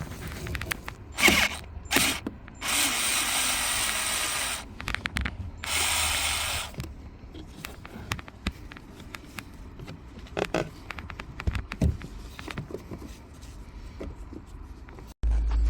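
Steering wheel of an SM7 (Nissan Teana/Maxima platform) creaking and clicking irregularly as it is worked, with two spells of steady hiss early on. Near the end the sound cuts to a steady low rumble.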